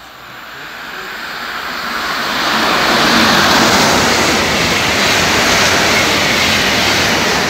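Westbahn Stadler KISS double-deck electric train passing at speed: a rushing noise of wheels on rails and air that builds over the first three seconds as it approaches, then holds loud and steady as the carriages go by.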